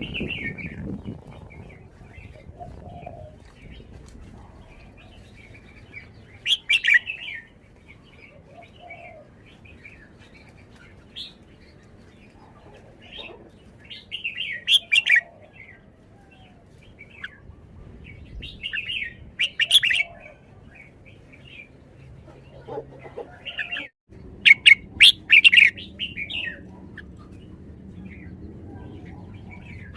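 A caged red-whiskered bulbul singing: short, loud, rapid song phrases a few seconds apart, with softer chirps between them. The loudest phrases come near the end.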